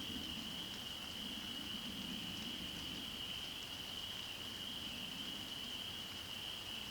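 Continuous shrill, high-pitched chorus of calling animals, holding one steady pitch without a break, over a faint low murmur.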